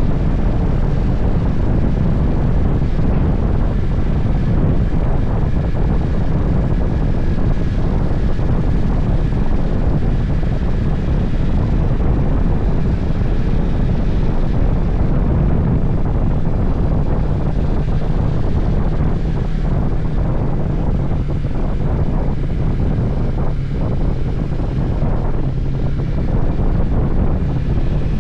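Motorcycle riding at a steady speed: wind rushes over the microphone, with the engine's steady low hum underneath.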